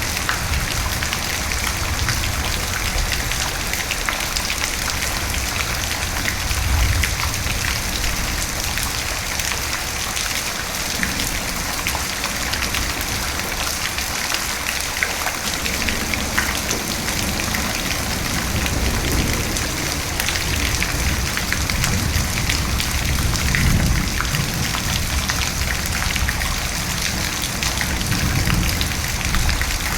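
Steady heavy rain falling, with a dense patter of drops, and low rumbles of thunder that swell now and then, most in the second half.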